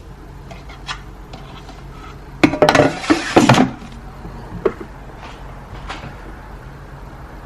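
Kitchenware being handled: a burst of clattering knocks of dishes and utensils about two and a half seconds in, lasting about a second, then a single knock and a few light clicks.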